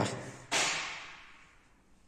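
A sudden swishing noise about half a second in, dying away over about a second.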